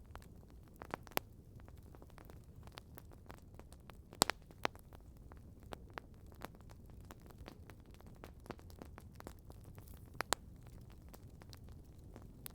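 Campfire crackling: irregular sharp pops and snaps of burning wood over a low steady rumble, with a few louder pops about a second in, around four seconds in and near ten seconds.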